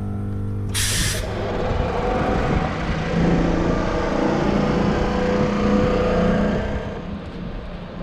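Railway train noise: a short sharp hiss of compressed air about a second in, like an air brake being released, then a steady running rumble with a low hum that quietens near the end.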